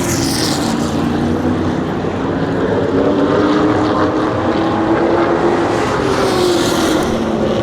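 Super Stock race car engines running at speed on an asphalt oval. The engine note is loud and steady, wavering up and down in pitch.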